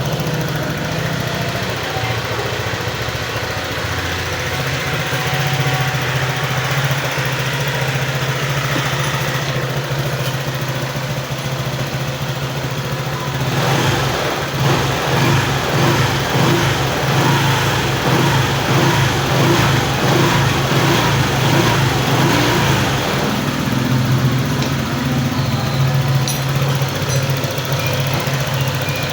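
Rebuilt Honda PCX 150 single-cylinder scooter engine running at idle after its overhaul. About halfway in, the sound turns rougher and more uneven.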